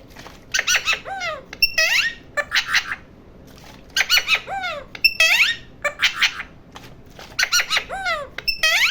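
Pet parrot calling: repeated bursts of shrill squawks and whistled notes that sweep up and down in pitch, with short pauses between the bursts.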